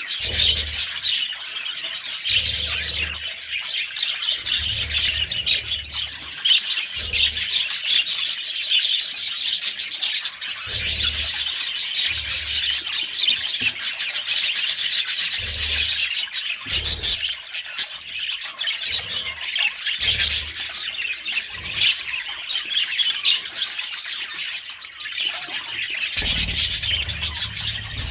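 A flock of budgerigars chattering and chirping continuously, with short low rumbles every second or two beneath the chatter.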